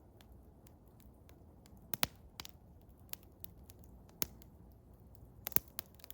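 Wood fire of eastern hemlock crackling, with sharp irregular pops, the loudest about two seconds in, about four seconds in and about five and a half seconds in, over a steady low rumble.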